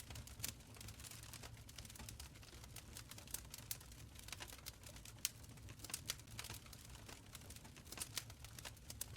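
Wood fire crackling in a stone fireplace: a soft low rumble of flames with frequent sharp, irregular pops and snaps.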